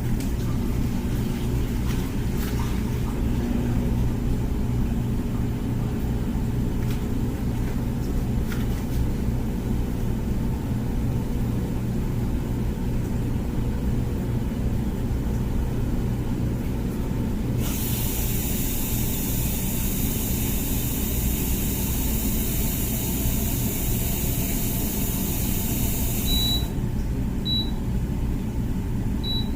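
Comfee dishwasher running with a steady low hum. After the halfway point a hissing rush lasts about nine seconds and then stops. Several short high beeps from the control panel follow near the end.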